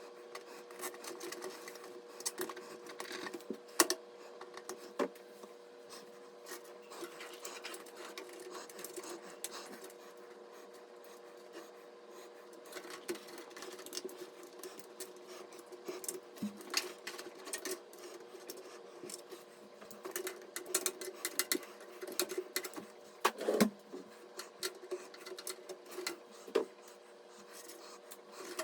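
Scattered small clicks and light knocks of computer parts being handled during assembly, over a steady hum.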